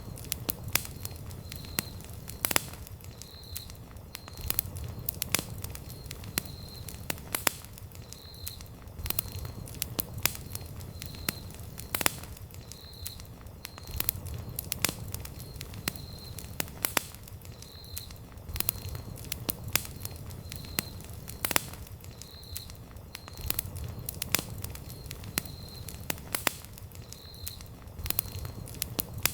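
Wood campfire crackling: irregular sharp pops and snaps over a low steady rumble, with a faint short high note recurring every second or so.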